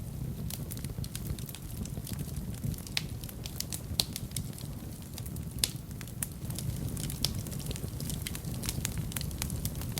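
Wood fire burning in a fireplace: a steady low rumble with irregular sharp crackles and pops, the loudest about four seconds in and again just past halfway.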